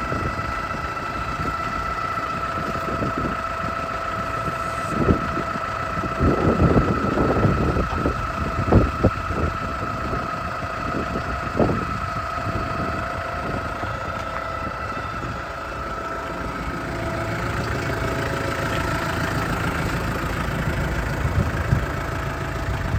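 Kubota M6-101 tractor's diesel engine idling steadily with a high whine over it, and a few knocks and thumps in the first half.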